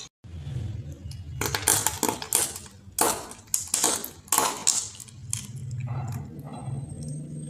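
Crunchy objects being crushed under a car's tyres: a run of sharp crackling crunches in the first few seconds, over the low hum of the car's engine.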